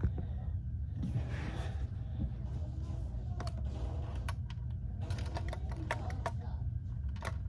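Light clicks and taps of a die-cast toy side-loader garbage truck being handled, several sharp little clicks in irregular succession over a low steady rumble.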